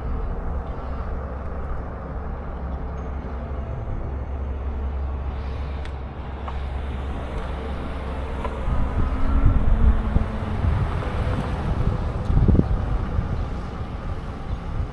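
Wind rumbling on the microphone, with road and traffic noise, while riding an electric bike. The rumble grows louder and gustier about halfway through.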